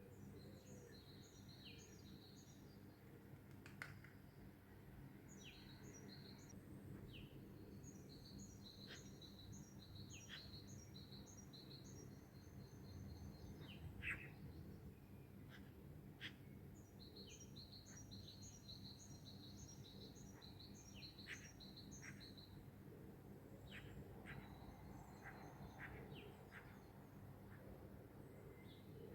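Faint songbirds singing: several phrases of quickly repeated high notes, with short sharp calls scattered between them, over a steady low background rumble.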